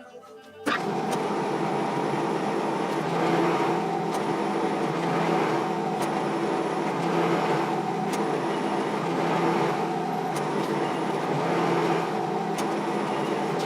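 Metal lathe running, a steady motor hum with the noise of the machine turning, which starts abruptly about a second in.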